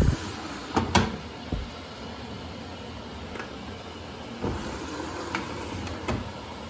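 Samsung washer-dryer filling with water at the start of a wash cycle: a steady running hum, broken by several dull knocks at irregular intervals.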